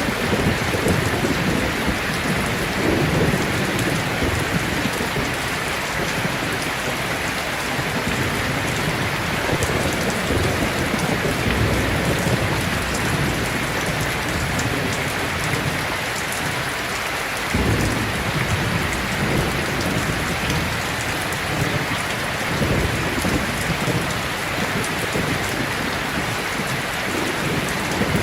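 Heavy rain pouring steadily, with low rolls of thunder rumbling through it; one roll comes in sharply a little past halfway.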